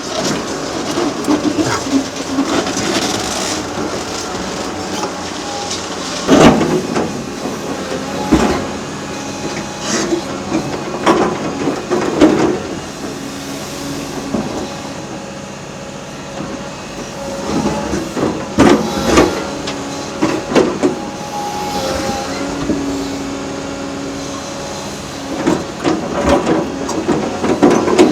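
Hydraulic demolition excavator working on a concrete bridge: a steady diesel engine under load, broken by irregular loud clanks and crunches as concrete is broken and falls. The loudest knocks come about six seconds in and again near the end.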